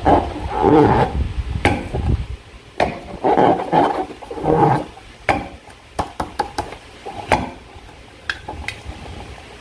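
Slime being squished and worked by hand: wet squelching for the first few seconds, then a run of short, sharp sticky clicks and pops.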